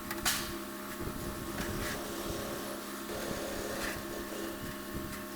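A steady motor hum with scattered light clicks and knocks; a sharp click comes just after the start.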